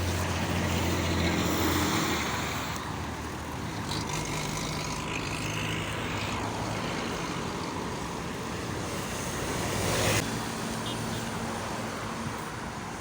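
Road traffic passing: car engines and tyre noise, with one vehicle going by close about ten seconds in.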